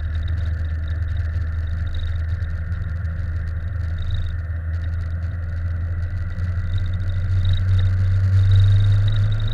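Steady low rumble of a moving vehicle, swelling louder about eight seconds in.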